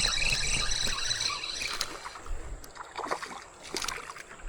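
Water splashing and rushing around a kayak as a hooked bass is brought in. A steady high whir lasts for the first second or so, then come scattered splashes and knocks.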